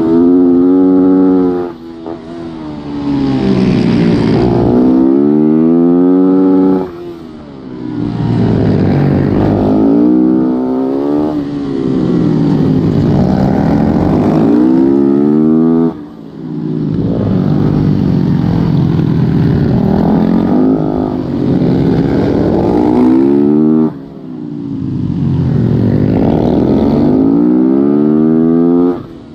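Supermoto motorcycle engine heard from an on-board camera at racing pace, the pitch climbing hard through the gears on each straight. The throttle is shut abruptly about every eight seconds for the corners, the note dropping sharply before building again.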